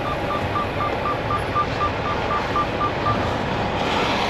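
Truck cab warning chime beeping rapidly at one steady pitch, about three beeps a second, stopping about three seconds in, over a steady rushing background noise.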